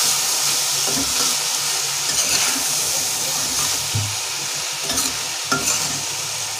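Soaked rice and fried vegetables sizzling in oil in a metal pot as a spatula stirs them: a steady high frying hiss, with a few scrapes and knocks of the spatula against the pot.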